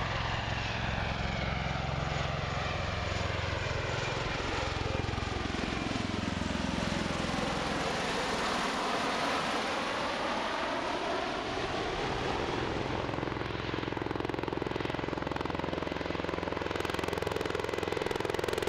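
Bell Boeing MV-22 Osprey tiltrotor flying past, its proprotors and turboshaft engines making a steady, deep pulsing drone. The sound sweeps down in pitch and back up again midway through as the aircraft passes. A harsher hiss joins near the end.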